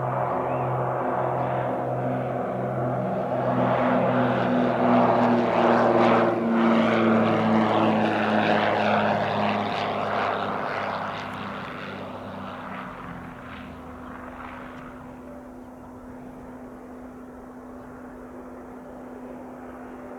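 Beechcraft Baron's twin piston engines and propellers droning as the plane lands and passes, with a pulsing beat between the two engines. It grows louder, dips slightly in pitch as it goes by, then fades over the last several seconds.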